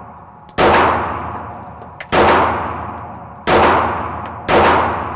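Four shots from a 9mm Glock 19 Gen 6 pistol, spaced about a second to a second and a half apart, each followed by a long ringing echo.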